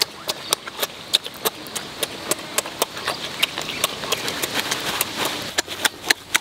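Wet chewing and lip-smacking as a person eats cooked squid: sharp smacks about three a second, fairly even in rhythm.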